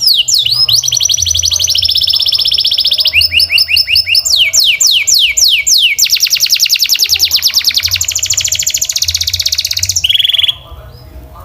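Canary singing a chain of rapid trills, each a run of fast repeated notes, with slower down-sweeping notes about four seconds in. The song stops abruptly about ten and a half seconds in.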